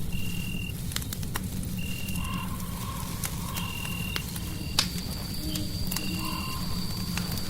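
Fireplace crackling with sharp pops over a steady low rumble, layered with a short high chirping call that repeats about every second and a half, and softer lower calls. A thin high tone sets in about halfway through.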